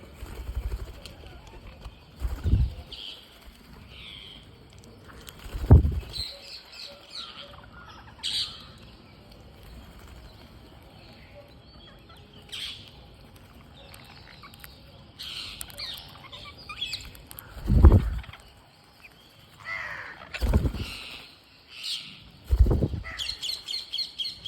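Green parrots chirping and squawking in short scattered calls, breaking into a quick run of repeated chatter near the end. Five loud, short low thumps, such as wing flaps or knocks near the microphone, stand out between the calls.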